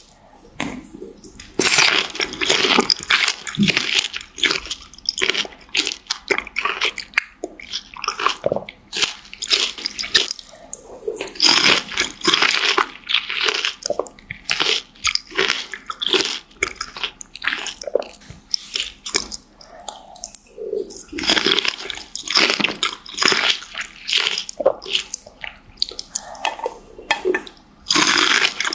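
Close-miked biting and chewing of fresh fruit: crisp crunches and wet chewing, in repeated bouts with short pauses between bites.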